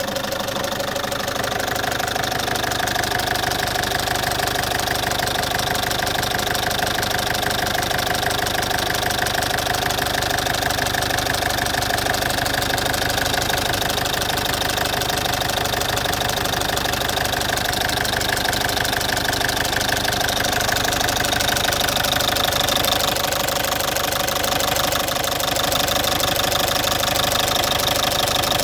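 Citroën C5's 2.0 HDi 100 kW four-cylinder common-rail diesel idling steadily, too loud, with a rapid ticking clatter. The owner suspects the ticking comes from around the injectors but is not sure.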